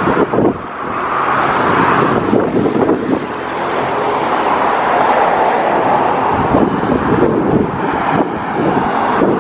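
Road and wind noise of a moving pickup truck heard from its open bed, with wind buffeting the microphone.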